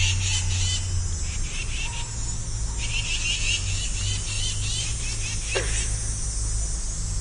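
Outdoor animal chorus: rapid chirping trills in repeated short bursts, over a steady low rumble, with one falling whistle-like sweep a little before the end.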